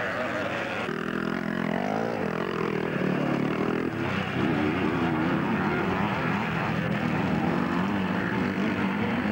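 Vintage twinshock 250cc two-stroke motocross bikes racing, their engines revving, with the pitch rising and falling as the riders work the throttle and gears.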